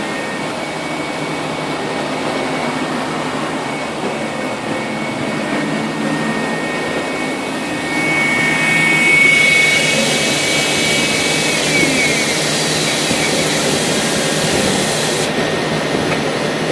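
CNC machine running with a steady whirring hiss and a high whine. About eight seconds in it gets louder, with a brighter hiss and several whining tones that shift in pitch, and the high hiss cuts off suddenly near the end.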